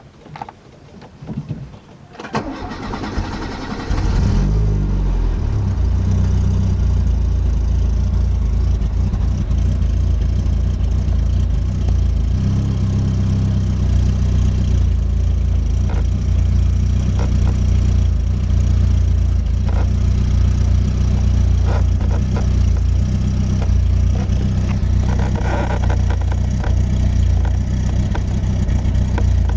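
Citroën BX 16v's 16-valve four-cylinder engine: a click, then the starter cranks it for about two seconds until it catches about four seconds in and settles into a steady idle.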